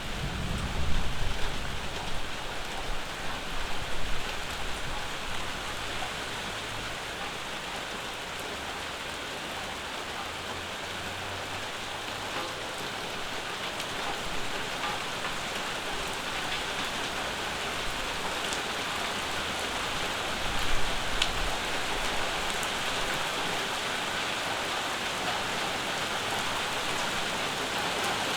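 Steady summer rainfall pattering on the surfaces around a porch, growing slightly heavier near the end. Brief low rumbles rise under it about a second in, again around four seconds in, and about two-thirds of the way through.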